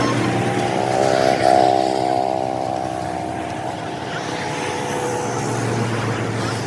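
A motor vehicle's engine running, its pitch rising a little about a second in and then holding steady.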